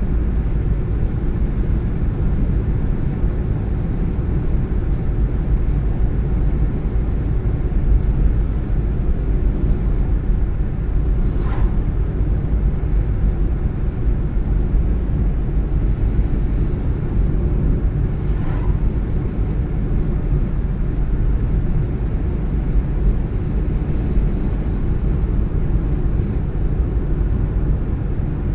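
Car driving at a steady speed: a constant low rumble of tyres on the road and the engine, with two faint clicks partway through.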